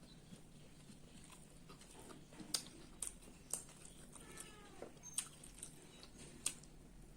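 A cat meows once, a short falling call, about four seconds in. Around it come a few sharp, faint clicks and smacks from eating.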